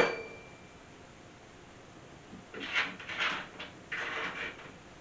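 A short metallic ring fades away at the start. After a pause of about two seconds comes a run of irregular metal scraping and clanking as a caster wheel is fitted into a steel engine-stand leg.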